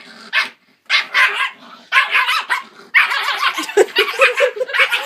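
A puppy barking repeatedly, about seven sharp, yappy barks in quick succession, agitated barking at a singing toy dog she hates. In the second half a steady wavering pitched sound runs beneath the barks.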